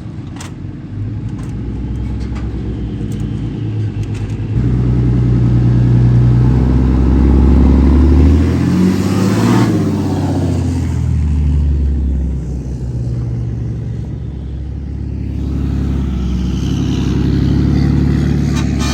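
Truck engine revving hard. It picks up sharply about four seconds in and holds loud with its pitch shifting, eases off past the middle, and builds again near the end.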